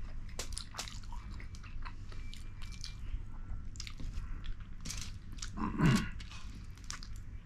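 Close-up eating sounds of fish curry and rice being chewed: many small wet mouth clicks and smacks, with one louder, fuller mouth sound a little under six seconds in.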